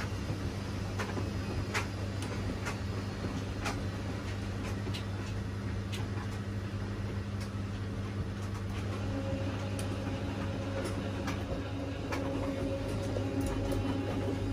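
Washing machine running, with a steady motor hum and scattered sharp clicks. About nine seconds in, a higher steady tone joins and the sound grows slightly louder.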